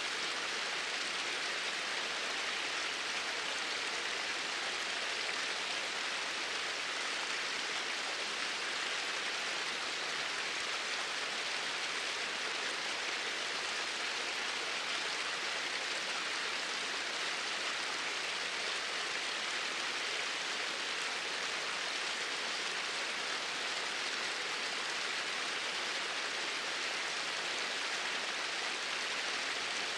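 Flowing water, a steady, even rush with no change over the whole stretch.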